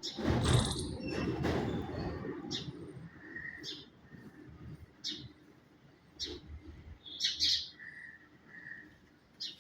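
Small birds chirping: short high calls repeating about once a second, with a couple of lower held whistled notes. A loud rush of noise fills the first two seconds.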